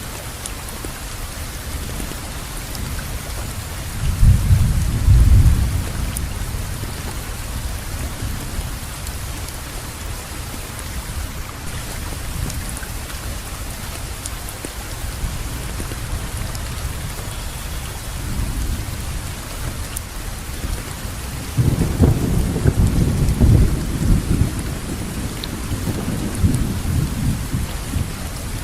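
Steady rainfall with low rolls of thunder: a short one about four seconds in and a longer, rolling one from about twenty-one seconds that dies away near the end.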